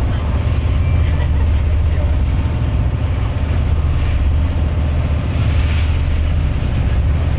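Engine running with a steady low drone, and wind buffeting the microphone.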